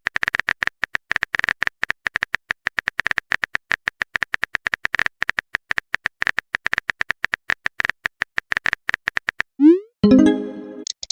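Electronic typing sound effect: a fast, uneven run of short clicks, each with a small beep, stopping about nine and a half seconds in. A quick rising glide and a short pitched chime follow near the end.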